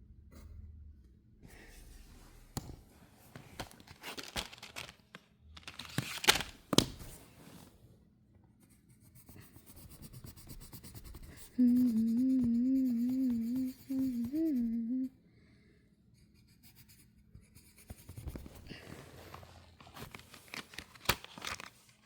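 Pencil scratching and tapping on paper as a bird is drawn, with a person humming a short wavering tune for about three seconds midway.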